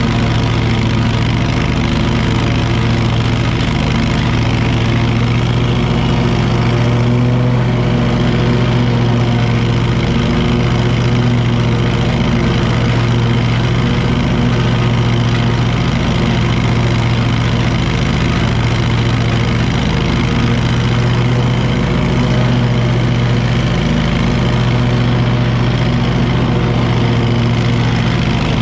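Wright commercial lawn mower's engine running at a steady speed, a constant, loud engine hum that holds its pitch throughout.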